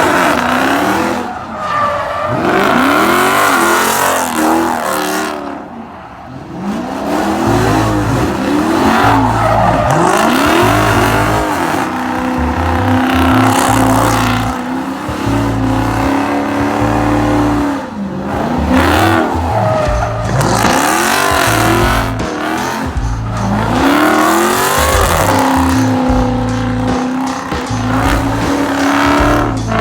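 Car engine revving hard again and again, its pitch sweeping up and falling back, with tires squealing during burnouts. A bass-heavy music beat runs underneath from about seven seconds in.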